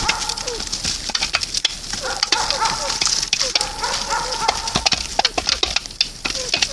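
Birds calling with short repeated pitched calls, over a steady patter of sharp clicks and a high chirring haze.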